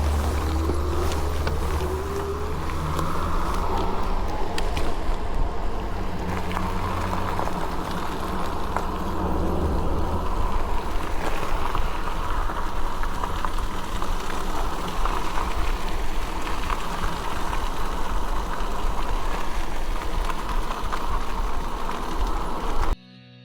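Electric bike ridden along a rough, wet trail: wind on the microphone, tyre and frame rattle over the ground, and a steady whine. Cuts off suddenly near the end as guitar music starts.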